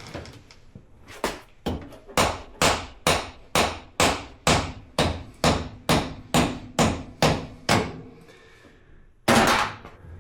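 Small hammer tapping the end of a new rear axle to drive it into a 2021 Honda Talon's rear differential: a steady run of about fifteen light blows, roughly two a second and growing louder, then a pause and one harder blow near the end.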